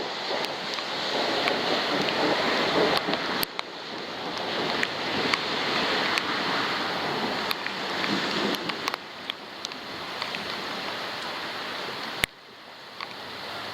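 Thunderstorm rain and gusting wind on a waterproof camera: a loud rush that swells and eases, with many sharp ticks of drops striking the housing. It drops suddenly quieter after a sharp click about twelve seconds in.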